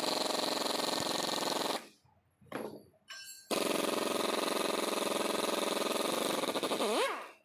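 A machine with a rapid rhythmic buzz runs in two bursts, about two seconds and then about three and a half seconds, starting and stopping abruptly each time, as when a tool's trigger is pulled and released.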